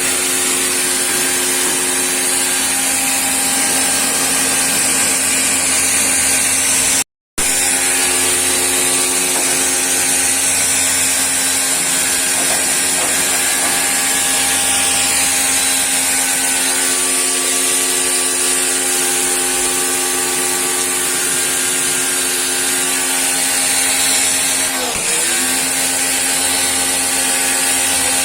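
Electric pressure washer running steadily: a motor whine with a strong high hiss of spray. About 25 seconds in, the motor pitch dips for a moment and then recovers.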